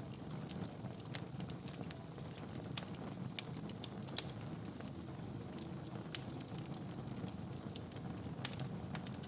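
Wood fire burning in a fireplace: a steady low rumble of flames with irregular sharp crackles and pops from the burning logs, a few louder pops in the middle.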